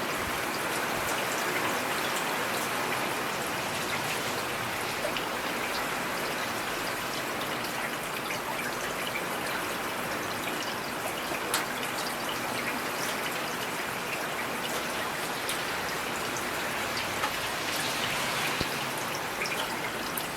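Steady rain falling, an even hiss with scattered individual drops ticking, and an occasional louder drop.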